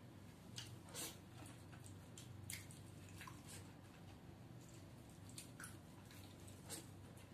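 Quiet wet mouth clicks and squishes, about six scattered ones, from chewing and sucking the pulp out of cooked drumstick (moringa pod) pieces eaten by hand, over a low steady hum.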